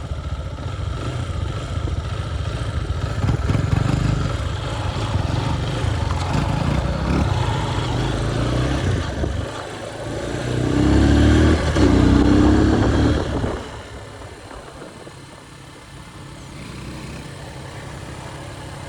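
Motorcycle engine running under way, a steady low rumble. About ten seconds in it grows louder for a few seconds with a rising engine note, then the sound drops much quieter for the last few seconds.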